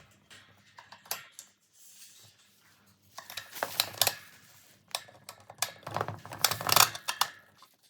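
Plastic fan parts being handled and fitted together: scattered clicks and knocks, with two busier bursts of clattering and rustling about three seconds in and about six seconds in.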